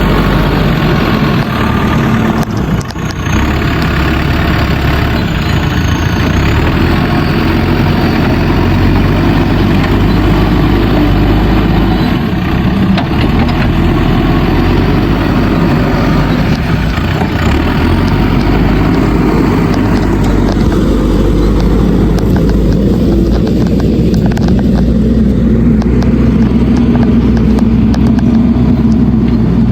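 Backhoe loader's diesel engine running loud and steady as the machine works, its sound turning deeper for a few seconds about two-thirds of the way through.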